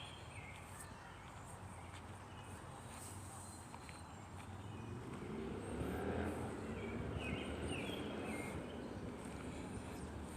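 Outdoor ambience: a vehicle passing, swelling about halfway through and fading toward the end, with short bird chirps twice.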